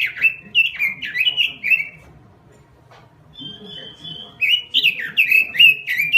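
Pekin robin (red-billed leiothrix) singing a fast, loud warbling song in quick phrases. It breaks off about two seconds in, gives one held whistled note, then goes back to rapid warbling.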